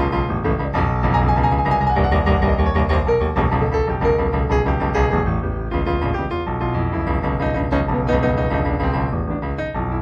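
Background piano music: a steady stream of notes over sustained low chords, in the manner of an improvised piece.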